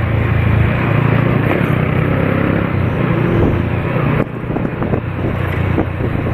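Motor vehicle engine running steadily while on the move, with wind rushing over the microphone; the sound drops suddenly about four seconds in.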